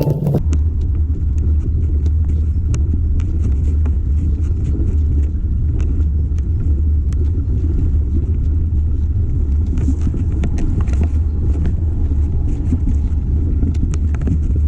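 Steady low wind rumble on the camera microphone while riding a mountain bike, with scattered sharp clicks and rattles from the bike over rough trail.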